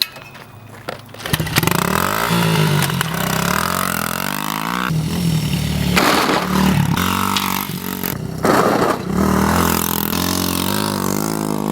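90cc dirt bike engine revving as it is ridden, starting about a second in. Its pitch rises as it accelerates and drops as the throttle closes, several times over.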